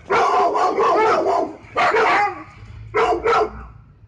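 Dogs barking in bursts: a long run of rapid, overlapping barks at the start, another burst about two seconds in, and two quick barks near the end.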